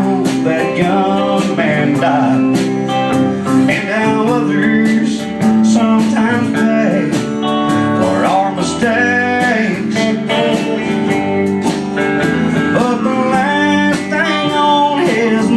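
A country band plays an instrumental break: a lead guitar line with bending notes over sustained chords and a steady drum beat.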